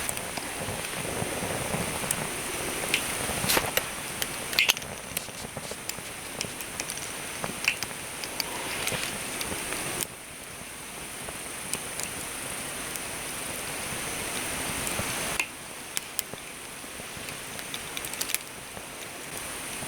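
Wood campfire crackling: a steady hiss with scattered sharp pops and snaps. The background changes abruptly twice, about ten seconds in and again about fifteen seconds in.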